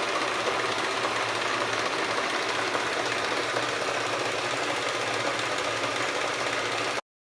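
E1N metal lathe running steadily, then cut off suddenly about seven seconds in.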